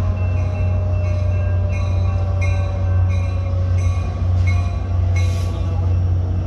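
EMD F59PH diesel locomotive and its train running through, a steady low engine hum with pitched tones that slowly fall, while grade-crossing bells ring at about one and a half strikes a second.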